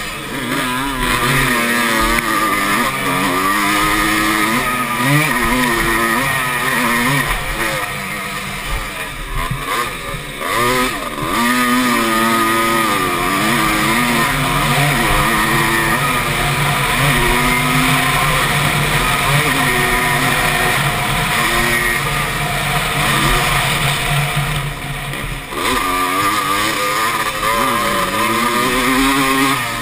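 Motocross bike engine heard from on board during a race, revving hard with its pitch climbing and falling again and again as the throttle is worked and gears change; it backs off more deeply about ten seconds in and again near the end.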